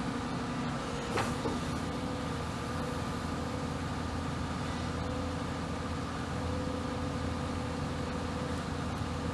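Excavator's diesel engine running steadily, with a sharp metallic knock about a second in and a lighter one just after.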